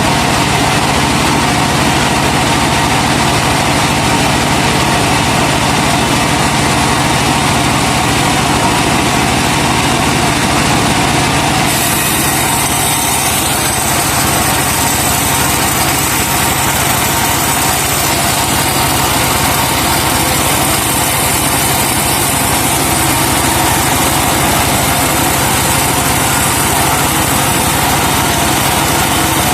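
Engine of a truck-mounted sawmill running steadily, driving the saw as it cuts a laban log. The sound changes about twelve seconds in, turning brighter and higher.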